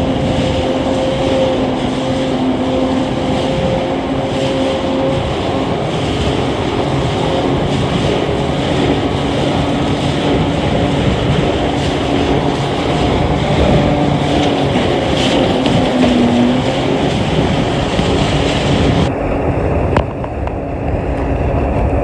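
Jet ski engine running steadily at speed, its whine holding one pitch with a brief dip about 16 seconds in, over rushing wind and water. A click about 20 seconds in, followed by a short drop in level.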